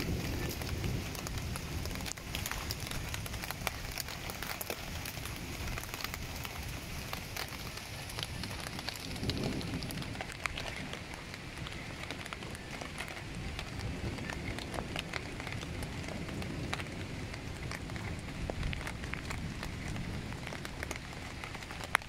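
Heavy rain with big drops: a steady hiss of rainfall, with many separate sharp drop impacts close by.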